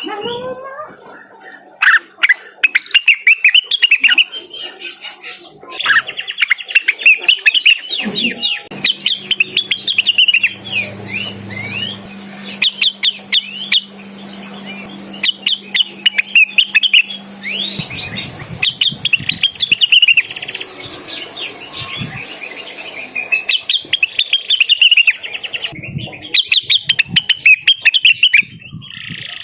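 Greater green leafbird (cucak wilis) singing in fast, chattering runs of high chirps, phrase after phrase with short breaks.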